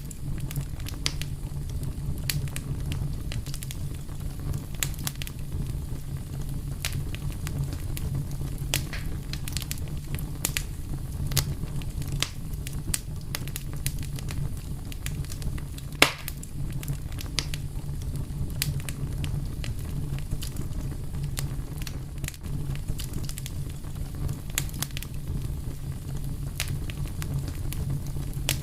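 Wood fire crackling, with frequent sharp pops and snaps over a steady low rumble of the flames; one louder pop a little past halfway.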